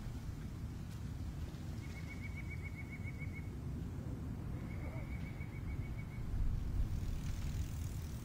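A steady low outdoor rumble, with a small bird's rapid trill of evenly spaced high notes given twice, each lasting about a second and a half.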